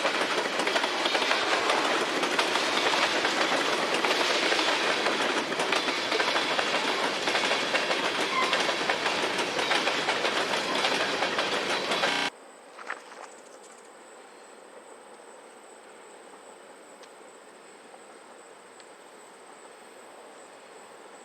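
Railroad freight cars rolling past with a steady clatter of wheels on rail, cutting off abruptly about twelve seconds in. After that come a couple of clicks and quiet background with a faint, steady high-pitched tone.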